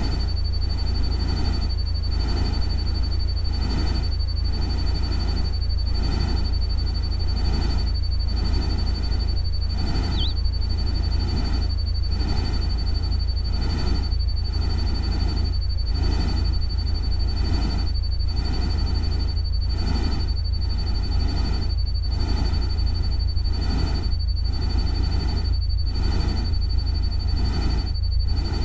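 Produced relaxation soundscape: a constant deep rumble and an unbroken high thin tone under a noisy wash that pulses about one and a half times a second, with a single short chirp about ten seconds in. It has a synthetic, machine-made character rather than the sound of real rain or a stream.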